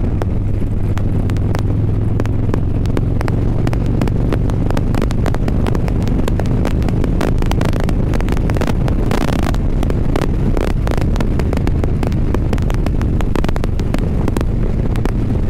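Harley-Davidson Low Rider's Milwaukee-Eight V-twin running steadily at highway cruising speed, heard from the rider's seat, with wind buffeting the microphone throughout.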